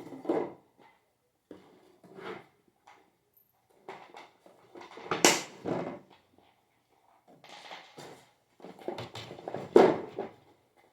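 Irregular knocks, clinks and rustles of ceiling fan parts and screws being handled and fitted together, with a sharp knock about five seconds in and another near the end.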